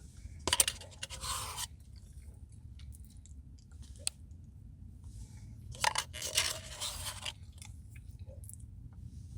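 Close-up eating sounds from a brownie Blizzard ice cream: two bursts of scraping and chewing, one about half a second in and one about six seconds in, with small mouth clicks between them.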